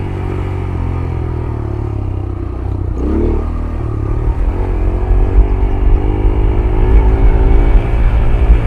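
Yamaha YBR 125G's single-cylinder four-stroke engine running, with a brief rise and fall in revs about three seconds in. In the second half there is louder, uneven low thumping and rattling as the bike rides over rough off-road ground.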